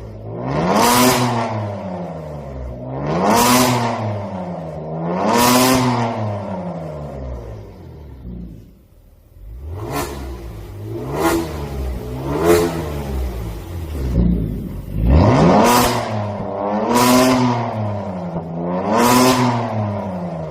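Kia Stinger 3.3 twin-turbo V6 through a Maintec V3 valved exhaust with 70 mm piping, revved in repeated blips that each rise and fall back. After a brief lull about halfway through, a run of quick, sharp blips follows, then three more full revs near the end.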